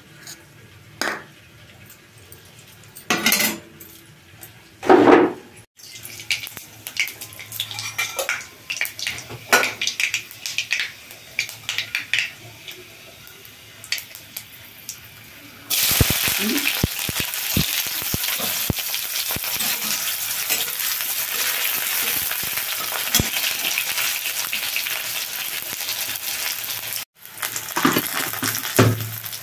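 Scattered clinks and knocks of utensils against a kadai. About halfway through, a loud, steady sizzle starts suddenly as chopped onions fry in hot oil, and it keeps going with a brief break near the end.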